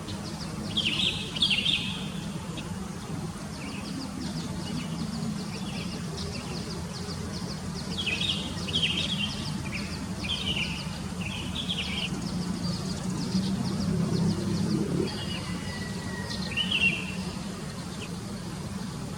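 Songbirds chirping in short clusters of quick notes, over a steady low hum and a faint, rapid high ticking.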